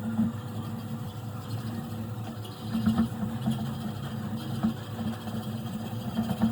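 An electric motor-driven machine running with a steady, slightly pulsing hum and a few light knocks.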